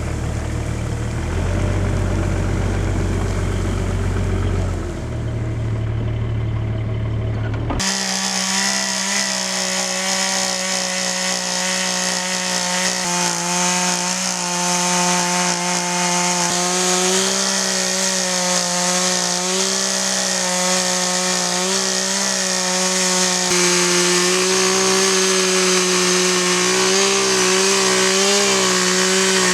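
Chainsaw running at full throttle under load in a chainsaw mill, ripping a log lengthwise, its pitch wavering slightly as the cut goes on. It starts abruptly several seconds in, after a low rumble.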